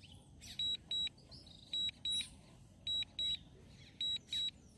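DJI drone remote controller sounding its critical low-battery alarm: short high beeps in pairs, the pair repeating about once a second, warning that the drone's battery is nearly exhausted.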